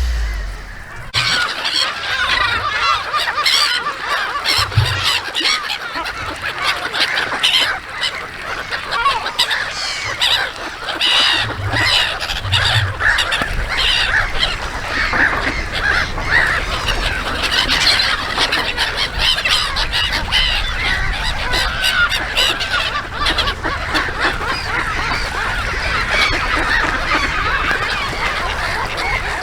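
A flock of geese honking, many calls overlapping in a dense, continuous chorus that starts about a second in.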